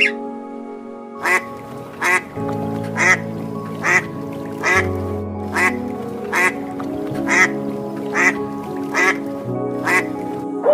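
Greylag goose calling repeatedly: about ten short calls, roughly one a second, over steady background music.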